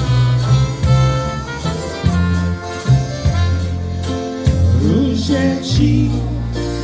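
Live polka band playing a Polish waltz: an instrumental passage over a bass line that changes note about once a second, with the singer coming back in near the end.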